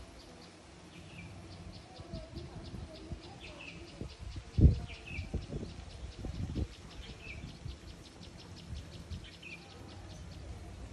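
A bird chirping repeatedly, a short falling chirp about every second and a half, over a fast even ticking. A few low thumps break in, the loudest about halfway through.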